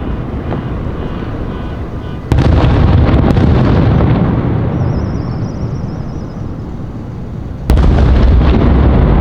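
Aerial firework shells bursting: two loud booms about five seconds apart, each followed by a long rolling rumble that slowly fades, with scattered crackles.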